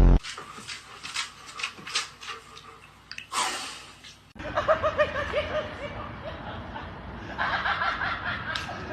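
A person laughing in short breathy snickers. After a sudden cut about four seconds in, a run of rapid, wavering, pitched calls follows.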